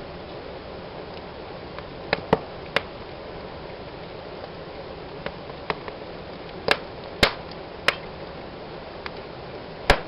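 Fire burning in a fireplace: a steady hiss with sharp crackles and pops, coming in small clusters about two seconds in and around seven seconds in, with the loudest pop near the end.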